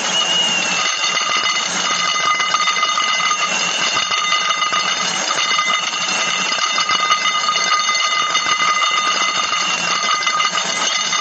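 Continuous, dense rapid clicking with steady high ringing tones running through it.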